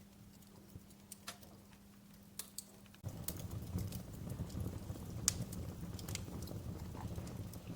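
Wood fire crackling, with scattered sharp pops and snaps. A low steady rumble comes in suddenly about three seconds in and carries on under the crackles.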